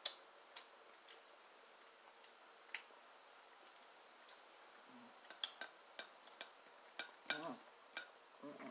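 A person eating close to the microphone: short sharp mouth clicks and smacks while chewing, more frequent in the second half.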